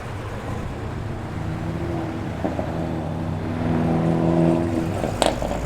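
Ford Falcon XA GT's V8 engine running at low revs as the car drives off. It grows louder until about four and a half seconds in, then falls away, and there is a sharp click about five seconds in.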